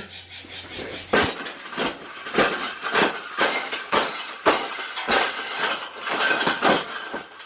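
Metal clattering and clanking: many sharp knocks and rattles in quick, irregular succession as something metal is worked and bent into a fold.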